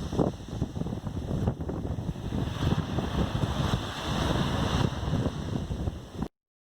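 Wind buffeting the microphone over the wash of ocean surf, in uneven gusts. It cuts off suddenly near the end.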